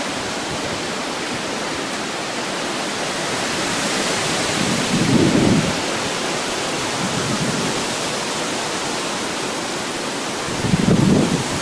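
Steady hiss of heavy hurricane rain and wind, with two strong gusts buffeting the microphone, one about five seconds in and one near the end.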